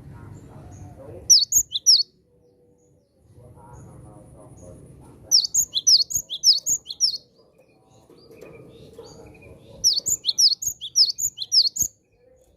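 Cinereous tit (gelatik batu) singing in three bouts of quick, high, repeated notes: about a second in, around five seconds in, and near ten seconds in. A low background murmur sits underneath.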